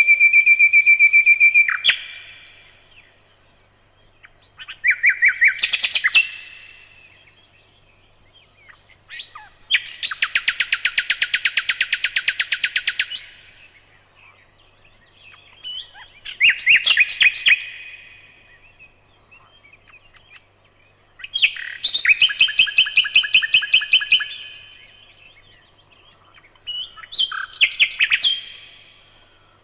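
Nightingale singing in separate phrases with pauses of a few seconds between them. A long held whistle ends about two seconds in, followed by about five more phrases of fast repeated notes, including a dense rattling trill around the middle.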